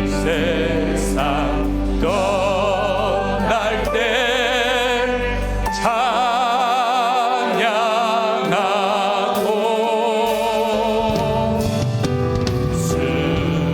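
Church praise band playing a worship song, with a singer's voice held in long notes with strong vibrato over sustained keyboard chords. The bass drops out about six seconds in and comes back about five seconds later.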